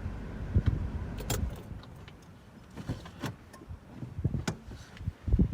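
Low car rumble that dies away about a second and a half in, followed by scattered clicks and knocks of things being handled in a car.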